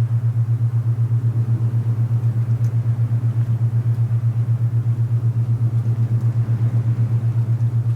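Low binaural-beat tone near 120 Hz, pulsing evenly several times a second, over a soft rush of wind.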